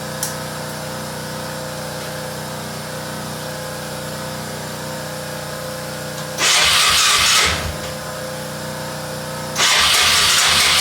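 ATV engine turned over twice on its electric starter without catching: a burst of about a second midway through, then a longer one near the end. The fuel had been shut off, so it cannot fire. A steady hum runs underneath throughout.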